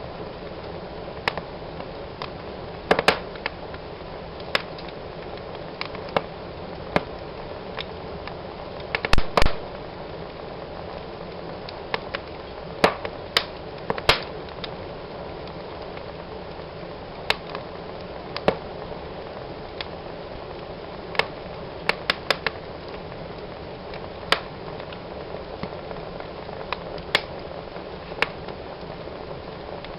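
Fire in a fireplace crackling: irregular sharp pops and snaps over a steady soft hiss, with a quick cluster of louder pops about nine seconds in.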